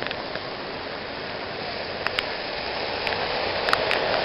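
Heavy tropical-storm rain falling steadily, with a few sharp drips or drop ticks close by, about two seconds in and near the end.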